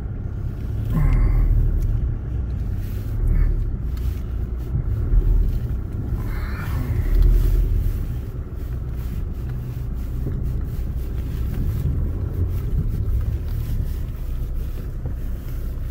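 A vehicle's engine runs with a steady low rumble, heard from inside the cabin, as the vehicle idles and creeps along. Two short higher-pitched sounds stand out over it, about a second in and again around six and a half seconds in.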